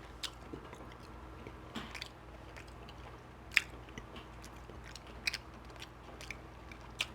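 Close-miked chewing of smoked beef rib meat: scattered wet mouth clicks and smacks at irregular intervals, over a faint steady low hum.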